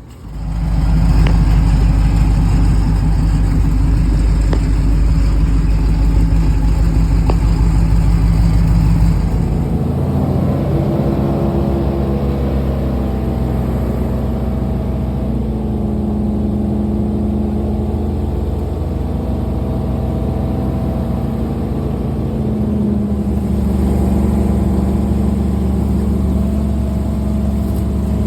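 A vehicle engine comes up loud just after the start and runs steadily. About nine seconds in its tone changes, and it settles into a steady drone.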